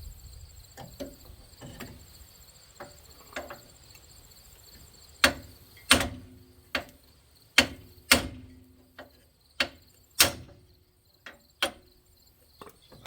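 Hammer striking metal front-suspension parts: a few light knocks, then about a dozen sharp ringing blows at irregular spacing, the hardest in the middle. Crickets chirp steadily in the background.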